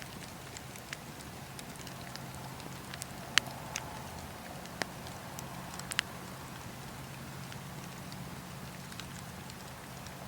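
Wood fire burning in a fireplace: a steady low rush with sharp, irregular crackles and pops, a cluster of louder pops in the middle.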